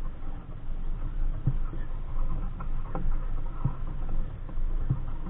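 Wind rumbling on the microphone aboard a Capri Coronado 15 sailboat under way, with water slapping against the hull in a few short knocks.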